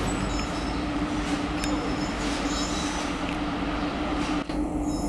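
Indian Railways WAP-7 electric locomotive hauling a passenger train on its approach: a steady hum over a low rumble, with thin high squeals of wheels on rail coming and going.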